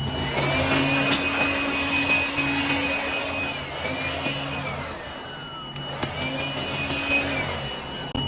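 Power tool's electric motor whining up to speed over a hiss, running steadily, then winding down with a falling whine about five seconds in. It starts up again briefly before the end.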